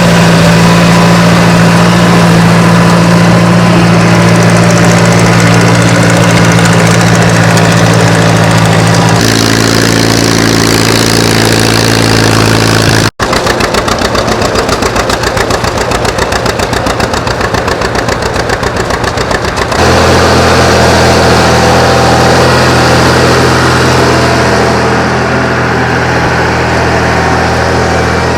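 Antique farm tractor engines running steadily while pulling plows, heard across several shots that cut at about 9, 13 and 20 seconds in. In the middle shot the engine sound beats in an even, rapid pulse.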